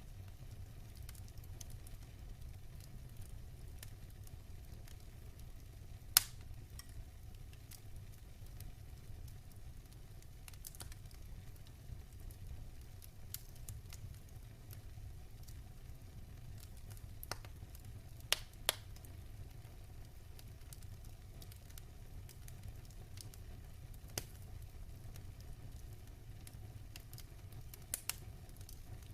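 Wood fire in a fireplace burning with a soft crackle over a steady low rumble, and a handful of sharp pops scattered through, two close together in the middle and two near the end.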